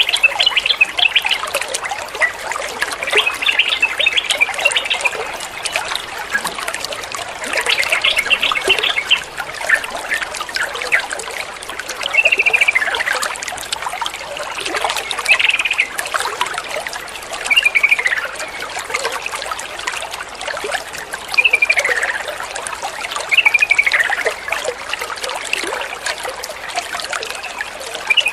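Yellow-vented bulbul (trucukan) singing short chattering phrases, several falling in pitch, every two to three seconds over a steady trickle of running water.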